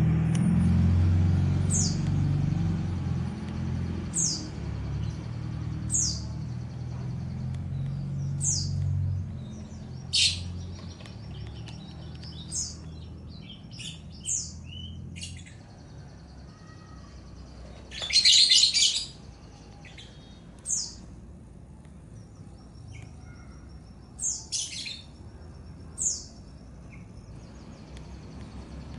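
Small songbirds chirping: short high notes that drop in pitch, repeated about every two seconds, with a louder burst of chirping about 18 seconds in. A low rumble underneath fades away over the first half.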